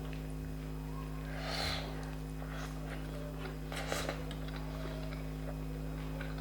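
Quiet eating-with-the-hands sounds over a steady low electrical hum: a soft breath about one and a half seconds in and a brief faint crackle near four seconds.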